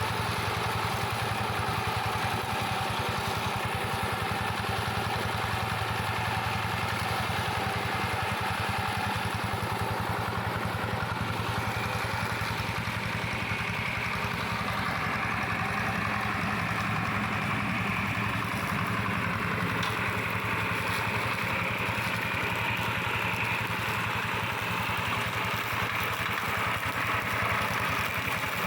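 Engine of a tractor converted into a brush mower, running steadily with a rapid, even clatter. A higher-pitched sound grows louder about halfway through.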